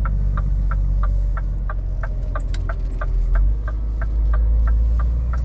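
Low drone of the Scania R500's V8 diesel heard from inside the cab while driving, with the turn-signal indicator ticking steadily about three times a second.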